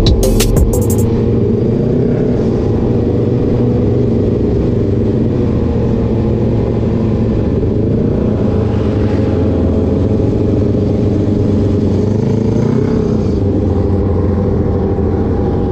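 Kawasaki ZX-6R inline-four engine running at a steady cruise, heard from the rider's own bike, with small rises and falls in pitch as the throttle changes.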